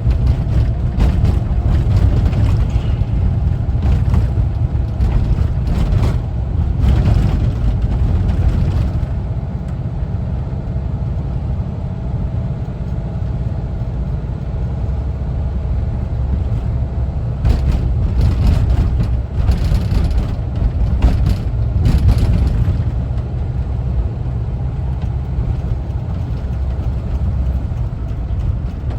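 1974 Volkswagen Westfalia camper van driving, its air-cooled Type 4 flat-four engine and the road making a steady low rumble. Clusters of short knocks and rattles come through in the first third and again a little past the middle.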